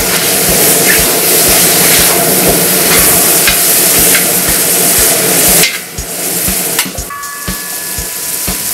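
Chicken sizzling and frying in a hot steel discada, with a metal spatula stirring and scraping across the pan. The sizzle drops off suddenly about six seconds in and carries on quieter.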